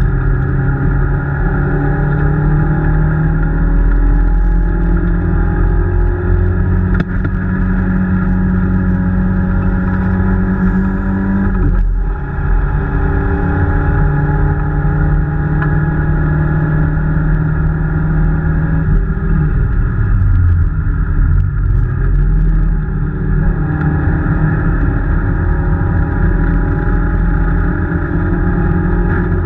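Peugeot 205 rally car's four-cylinder engine heard loud from inside the cabin under hard driving, the engine note climbing and falling with the revs. There is a brief break in the note about twelve seconds in, and about two thirds of the way through the revs drop away and then build again.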